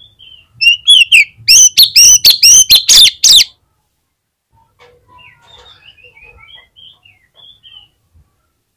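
Oriental magpie-robin (kacer) singing: soft, high chirping notes, then a loud run of about eight rapid, harsh sweeping calls lasting a couple of seconds, after which the soft chirping resumes following a brief pause.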